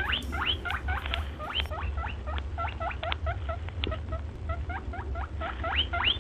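Rabbit sound: a rapid run of high squeaks, about five or six a second, each a quick rising chirp, over a low steady hum.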